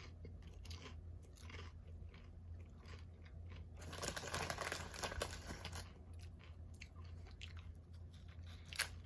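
Close-up chewing and crunching of crisp chips with dip, louder and denser for a couple of seconds midway.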